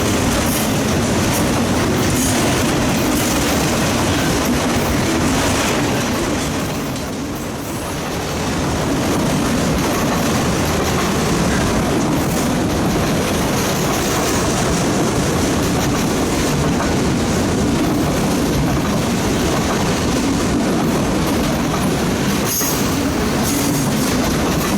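Freight train rolling past, its steel wheels clattering steadily over the rail joints, with a brief lull about seven seconds in.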